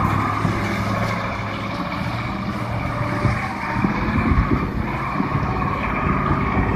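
KamAZ-4310 truck's V8 diesel engine running steadily under load as it drives through deep wet snow.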